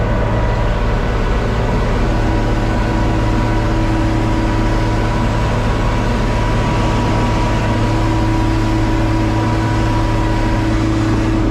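John Deere 4250 tractor's six-cylinder diesel engine running at a steady speed: a constant drone with several steady hum tones over it.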